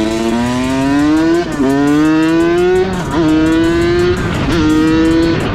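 Dirt bike engine pulling through the gears: its pitch climbs, then drops sharply at each of three gear changes, climbing or holding steady in between.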